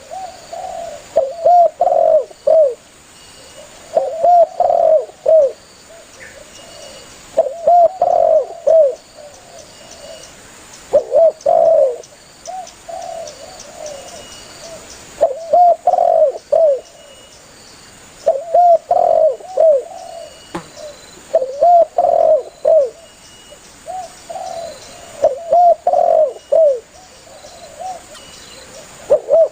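Spotted dove (tekukur) cooing: a phrase of several short, rounded coos repeated every three to four seconds, the bird calling persistently.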